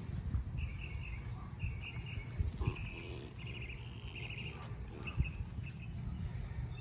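A bird chirping in short, repeated high trills, over a steady low rumble of wind on the microphone.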